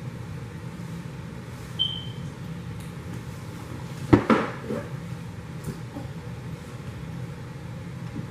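A sharp knock over a steady low hum, with one short high beep about two seconds in.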